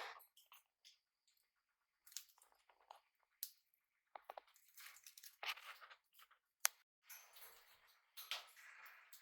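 Faint scratchy, crunchy noises from pet budgies and cockatiels, coming in short irregular bursts with a sharp click about two-thirds of the way in.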